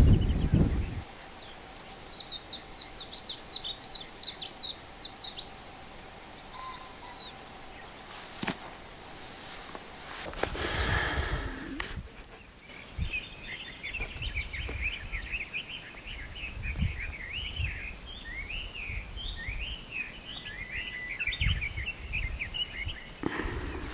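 Wild songbirds singing: a quick run of high chirps in the first few seconds, then a lower warbling song of repeated phrases from about halfway through almost to the end. Wind rumbles on the microphone at the start, and there is a brief whoosh about eleven seconds in.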